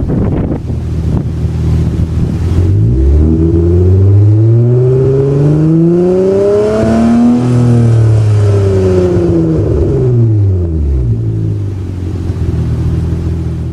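Hyundai Tiburon with a DC Sports cat-back exhaust idling, then revving: the engine pitch climbs steadily for about four seconds, falls back over about three, and settles to a steady idle again.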